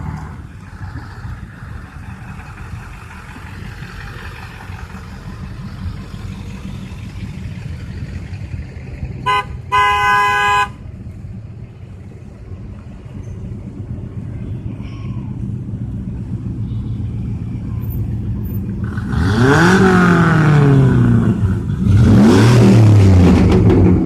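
Vehicle engines running in a truck convoy, with a short honk and then a longer blast of a vehicle horn about ten seconds in. Near the end come two loud sweeps that rise and fall in pitch.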